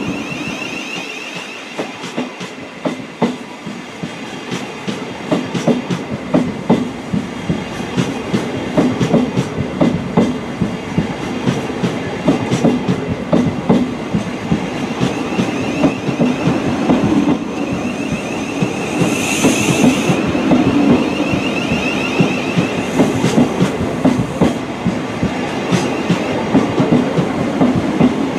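A Thameslink Class 700 (Siemens Desiro City) electric multiple unit pulls out of the platform past the listener. Its wheels clatter with dense clicks over the rail joints, over a steady running rumble that grows slowly louder as it gathers speed. A short burst of high-pitched noise comes about two-thirds of the way through.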